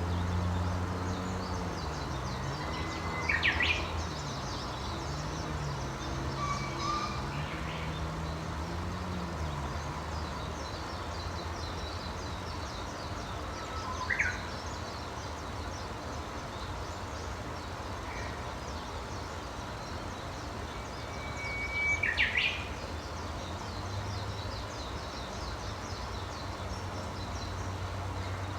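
Wild birds calling: three loud, sharp calls that sweep down in pitch, about three, fourteen and twenty-two seconds in, over faint steady chirping of more distant birds. A low engine hum shifts in pitch during the first ten seconds.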